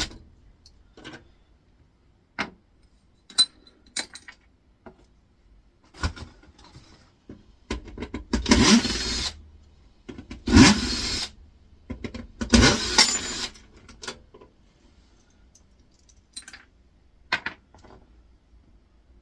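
Metal parts of an air fryer being pried and wrenched apart with hand tools: scattered metallic clicks and taps, and three loud, harsh bursts of metal being forced, about eight, ten and twelve seconds in.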